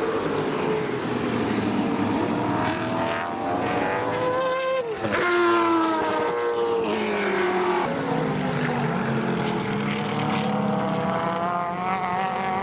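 Sports sedan race cars going past at speed, engines at high revs; one passes close about five seconds in, its pitch dropping sharply as it goes by, and near the end the engine pitch rises as the cars accelerate.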